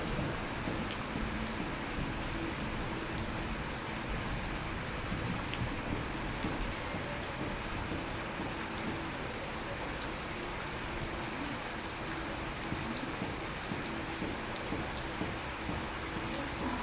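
Steady rain falling, an even hiss with many scattered drops ticking.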